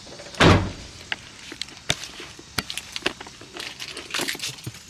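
A heavy thump about half a second in, then a run of light clicks and rattles, like keys jangling and being handled.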